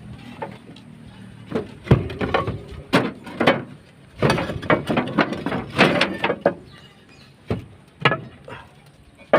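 Irregular knocks and clatter of hand work on a roof during a zinc gutter repair, thickest in the middle, with two single knocks near the end.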